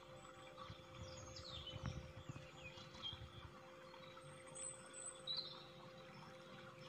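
Faint bird chirps: a few short falling calls in the first half and a brief high call about five seconds in, over a steady low hum and soft handling bumps.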